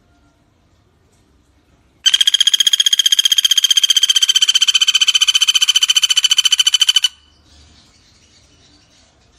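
Common flameback woodpecker (pelatuk bawang) giving one long, rapid, even rattling trill of high notes, starting about two seconds in and lasting about five seconds.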